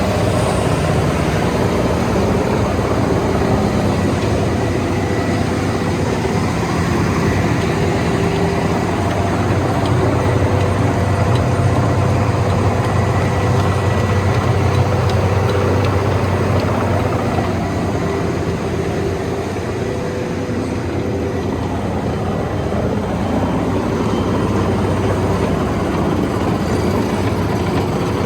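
Diesel engine of a Vögele Super 1803-3i asphalt paver running steadily at constant speed, a low hum with a few steady higher tones over it.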